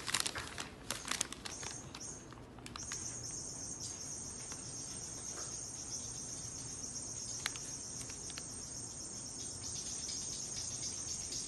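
Insects chirring in a steady high-pitched chorus that sets in about three seconds in, after a run of light clicks and taps.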